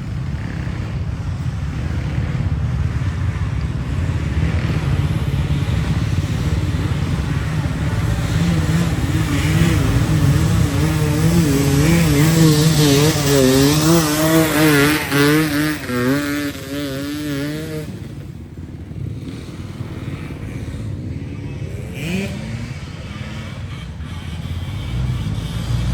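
Motocross motorcycle engine revving, its pitch rising and falling as it is worked and growing loudest about halfway through before falling away, over a steady low rumble.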